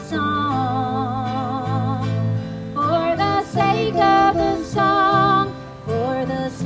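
Live band playing a song: a voice singing long notes with vibrato over guitar accompaniment.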